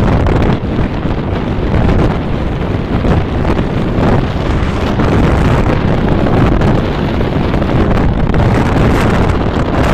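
Strong wind buffeting the microphone: a loud, continuous rumbling noise that rises and falls without a break.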